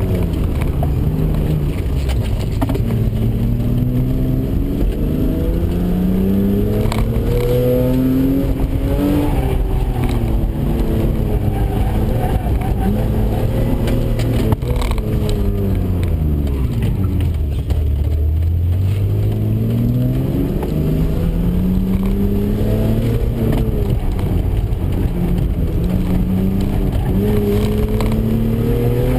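Car engine heard from inside the cabin during an autocross run. The engine note climbs, then falls to a low pitch about two-thirds of the way through, then climbs again.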